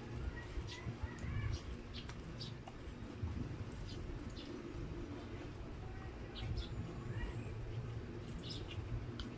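Close-up chewing of a slice of Spam: wet lip smacks and sticky mouth clicks, many short ones scattered irregularly, over a steady low hum.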